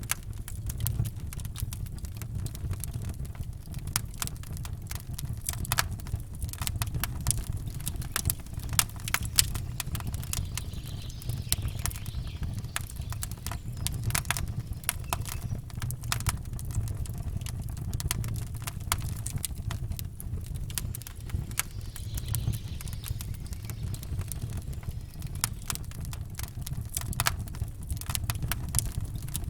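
Campfire crackling: many sharp, irregular pops and snaps over a steady low rumble.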